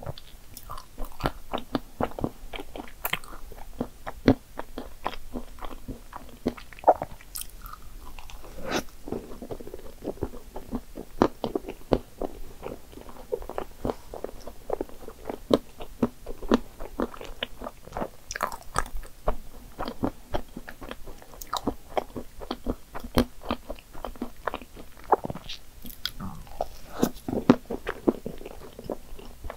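Close-miked chewing and biting of cream puffs topped with whipped cream, Nutella, chocolate syrup and chocolate chips: wet mouth sounds with frequent small, irregular crunches and clicks.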